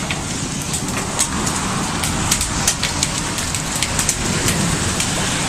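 Hailstorm: a steady downpour of rain with hailstones striking hard surfaces as irregular sharp clicks, several a second.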